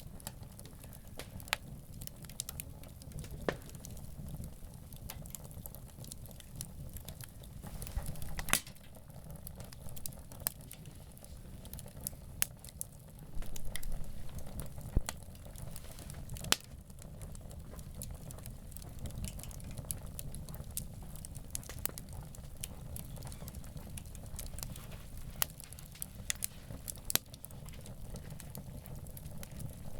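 Wood campfire burning, crackling with scattered sharp pops and snaps over a low steady rumble, a few pops louder than the rest.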